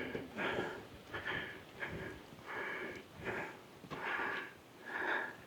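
A person breathing hard in a steady rhythm of short, noisy breaths, about one every three-quarters of a second: the panting of someone exerting themselves while hiking.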